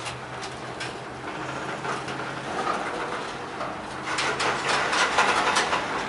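Freight train's covered hopper cars rolling past, steel wheels clacking over the rail joints over a steady rumble and low hum, with a quick run of clacks near the end.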